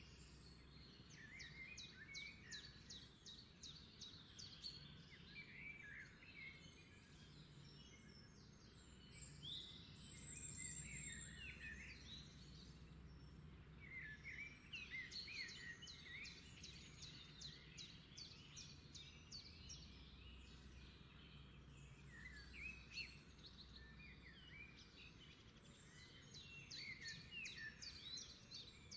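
Faint birds chirping and twittering in repeated short bursts of song every few seconds.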